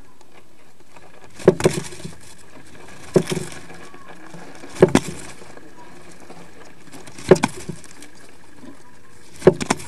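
Five sharp knocks inside a swift nest box, roughly every two seconds, each a quick double or triple tap, over a faint steady hum.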